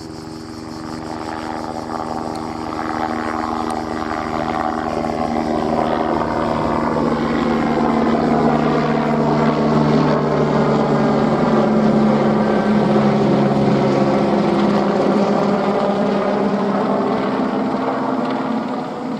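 Airbus AS350 helicopter flying past, its rotor and turbine sound growing steadily louder to a peak about two-thirds of the way through, then easing off a little.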